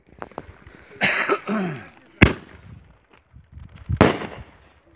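Aerial fireworks going off: a rushing hiss about a second in, then two sharp bangs about two seconds apart, the second trailing off in a long fading echo.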